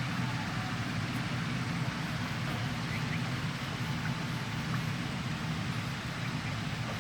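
Backhoe loader's diesel engine running steadily, a constant low hum over a wash of background noise.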